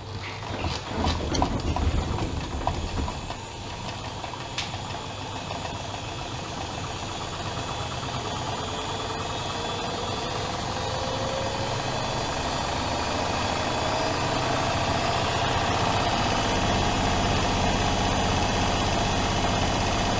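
Privileg Dynamic 7420 washing machine going into its spin: a few knocks in the first seconds, then the motor's whine rises slowly in pitch and grows steadily louder as the drum speeds up.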